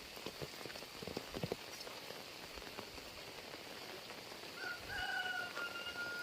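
Heavy rain falling steadily, with a few sharp taps about a second in. From about four and a half seconds in, a long, slightly falling high tone sounds over the rain and is the loudest thing heard.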